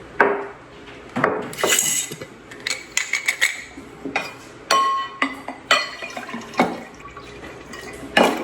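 Glass jars clinking and knocking, a dozen or so sharp knocks, several leaving a short bright ring, as jars are handled and packed with pickles.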